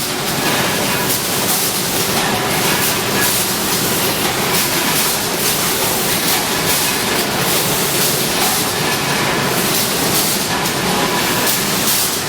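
An automatic mesh bag cutting and sewing machine running: a steady, loud mechanical clatter of fast repeated strokes with a faint steady whine.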